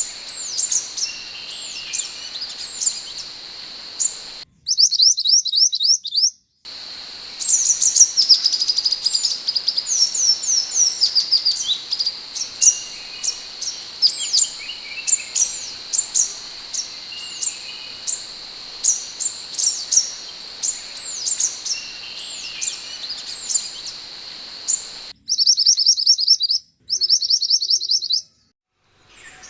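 Scarlet minivet (sepah hutan) calling: a quick run of short, high, thin notes, each dropping in pitch, over a steady high hiss. Twice the recording cuts abruptly to a cleaner stretch of faster chirping.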